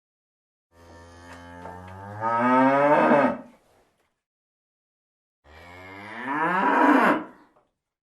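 Cow mooing twice, two long moos a couple of seconds apart, each rising in pitch and growing louder before breaking off.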